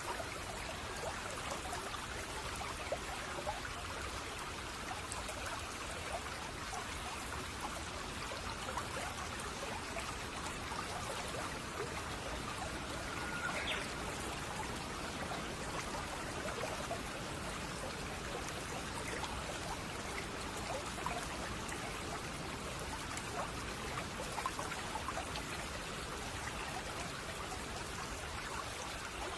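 A shallow babbling brook trickling and burbling steadily over stones, with one short bird call about halfway through.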